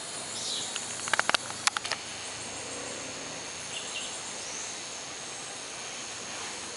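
Steady, high-pitched outdoor insect chorus, with a quick run of sharp clicks about a second in and a couple of faint bird chirps.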